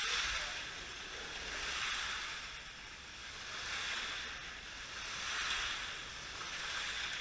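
Slot cars running laps on a slot car track, a whirring hiss that swells and fades about every two seconds as the cars pass.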